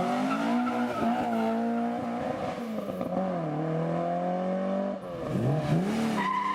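Car engine revving hard as it accelerates away. Its pitch climbs and holds, dips, then drops off sharply about five seconds in before climbing again.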